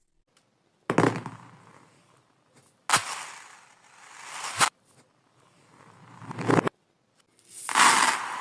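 Marbles clattering, played in reverse. Sharp clacks that fade away alternate with sounds that swell up and cut off abruptly, about five events in all.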